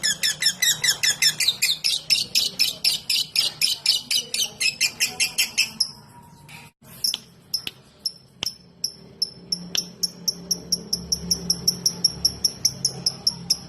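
Lovebird 'ngetik' call: a fast, even train of short sharp chirps, about five a second. About six seconds in it breaks off for a moment with a few clicks, then a higher, thinner ticking series of about four or five a second carries on.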